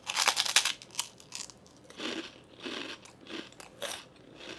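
A person biting into an airy, crunchy pork rind (chicharrón). A burst of crackly crunching lasts about the first half-second, then the chewing goes on with softer crunches every half-second or so.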